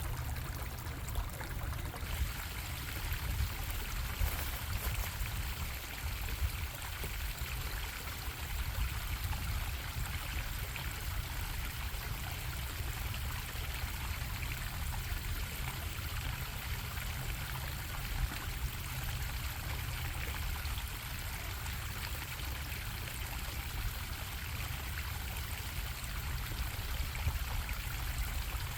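Stream water bubbling and splashing over rocks: a steady rushing with a low rumble beneath it.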